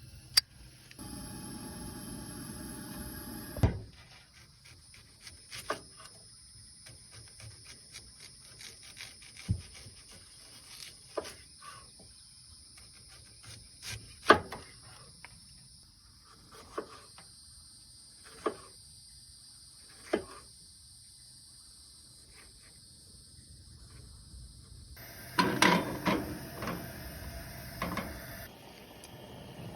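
Insects such as crickets trilling steadily and high-pitched, with scattered sharp knocks and clicks from things being handled. A louder run of clattering comes near the end.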